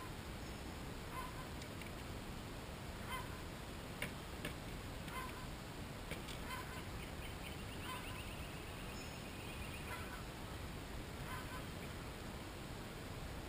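A bird giving short calls over and over, roughly one every second or two, with a quick run of rapid notes a little past the middle.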